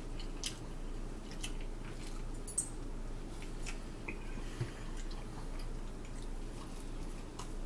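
Soft chewing and mouth sounds of people eating pizza, with scattered light clicks from handling the slices and plates, over a steady low hum.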